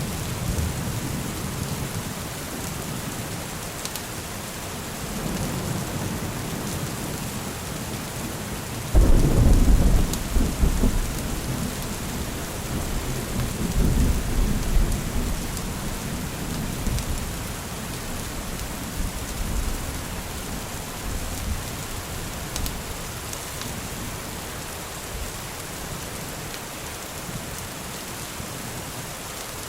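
Steady rain falling, with rolling thunder underneath. A loud thunder rumble breaks out about nine seconds in and rolls on for several seconds before easing back under the rain.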